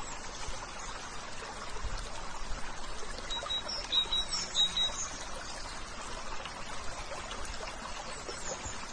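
Water flowing steadily in a stream, with a few short high chirps about three and a half to five seconds in.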